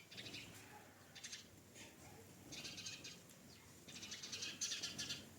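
Birds chirping in short, rapid, chattering bursts, four times, the longest and loudest near the end.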